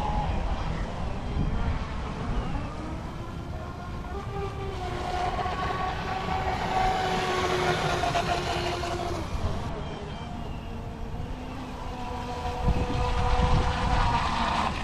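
Brushless RC boat motor running on the water, a whine of several held tones that steps up and down in pitch with the throttle, over a rumble of water and wind.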